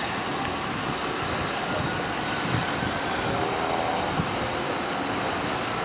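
Steady outdoor traffic noise, with a passing vehicle heard faintly toward the middle.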